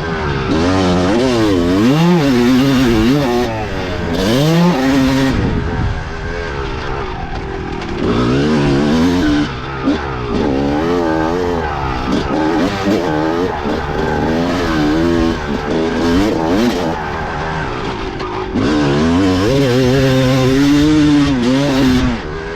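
Two-stroke dirt bike engine revving up and down as it is ridden, its pitch rising and falling every second or two, then held high for a few seconds near the end.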